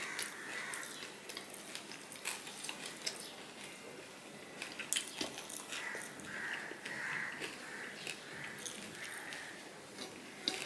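Close-miked chewing and wet mouth sounds of a man eating rice and fried hilsa fish by hand, with scattered small clicks as his fingers pick rice grains off the plate. The mouth sounds are busiest in the second half.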